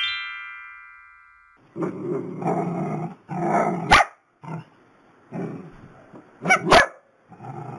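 A bright chime rings and fades over the first second and a half. Then long-haired dachshunds bark and growl in repeated bursts, with sharp, loud yaps around the middle and again near the end.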